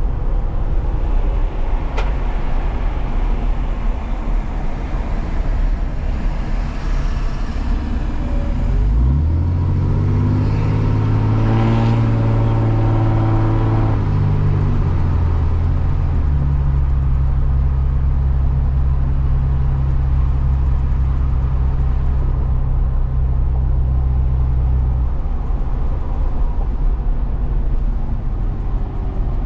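Truck engine and road noise heard from inside the cab. About nine seconds in, the engine note rises as the truck accelerates, then holds a steady drone for about ten seconds before easing off near the end; a single sharp click about two seconds in.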